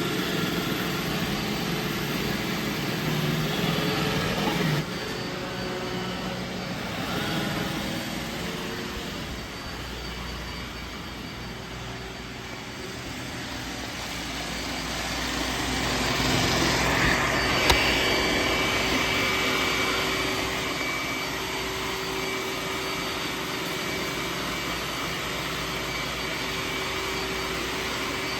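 Roomba robot vacuum running and cleaning: a steady motor and brush whirr that swells and fades as it moves, with one sharp click about two-thirds of the way through.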